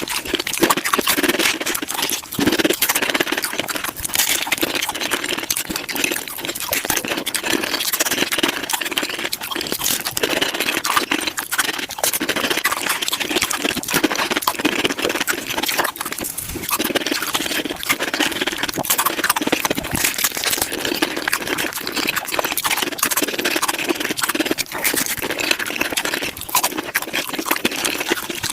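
Taco-eating sounds sped up to five times normal speed: rapid, dense chewing and crunching with a steady run of crackles.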